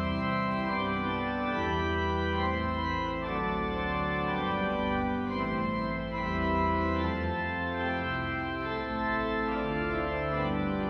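Pipe organ playing full, sustained chords over a moving pedal bass, the chords changing about once a second.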